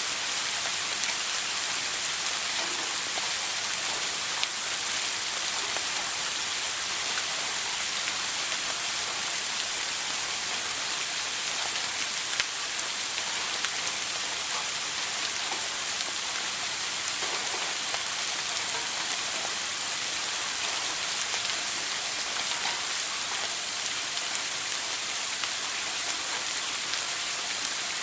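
Shower running steadily: an even hiss of water spray with scattered tiny droplet ticks.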